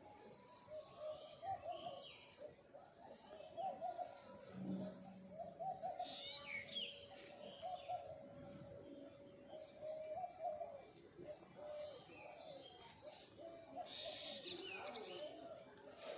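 Several birds calling: short, low calls repeating over and over, with bursts of higher chirping about six seconds in and again near the end.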